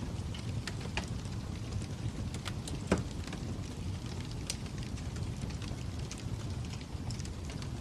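Fire crackling: a steady low rumble with scattered sharp pops, the loudest about three seconds in.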